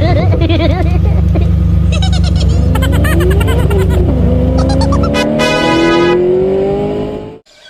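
A vehicle engine runs steadily under music; the engine stops about five seconds in. Slowly rising tones climb until all the sound cuts off abruptly just before the end.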